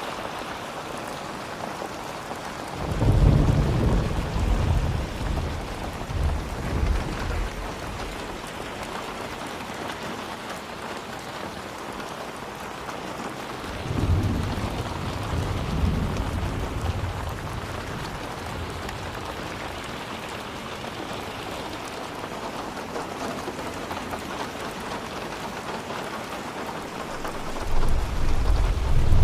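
Steady heavy rain hissing, with thunder rumbling low three times: a few seconds in, about halfway through, and again near the end.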